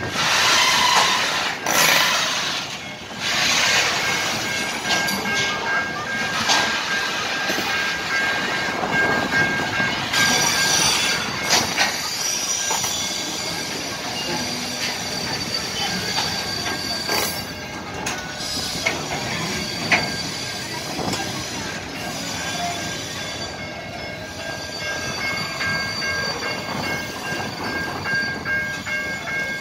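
Freight train flatcars loaded with steel plates rolling past, with scattered knocks from the wheels and couplings. From about ten seconds in, a steady high-pitched wheel squeal rides over the rumble.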